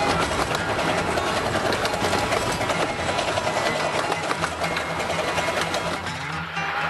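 Steady, rapid mechanical clatter of a miniature steam train running at speed, heard from on board one of its carriages: wheels and carriage rattling along the track.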